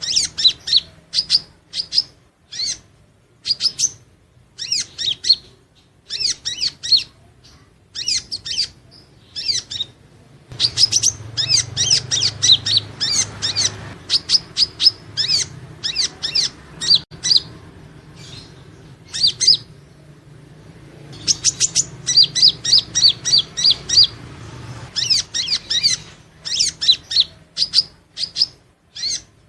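Purple-throated sunbird (Leptocoma sperata) singing: rapid series of high, thin chirps in short bursts a second or two long, separated by brief pauses. A faint low hum runs underneath.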